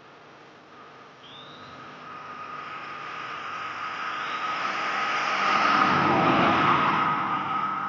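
A road vehicle approaching and passing close by: its noise builds steadily, is loudest about six seconds in, then eases off a little.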